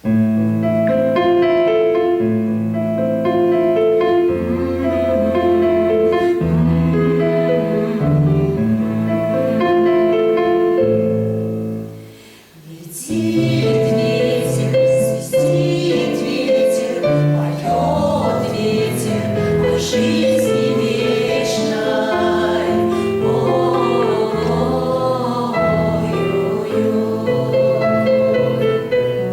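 A choir sings a song with instrumental accompaniment, in sustained held chords. The music dips briefly about twelve seconds in, then goes on.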